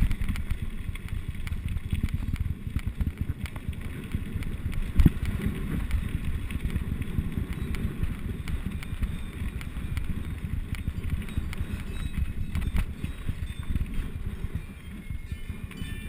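Mountain bike riding down a rough trail: a continuous rumble with rattles and knocks, and one sharper knock about five seconds in.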